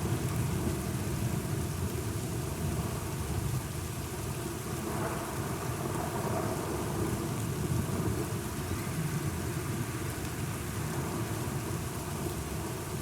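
Steady rain during a thunderstorm, with thunder rumbling low underneath, swelling slightly about halfway through.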